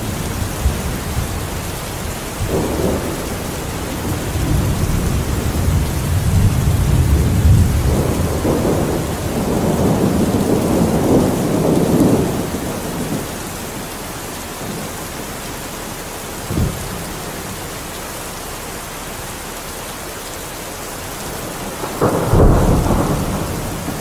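Steady heavy rain with thunder: a long rolling rumble builds and fades over the first half, a short sharp crack comes about two-thirds of the way in, and a louder thunderclap with rumble breaks near the end.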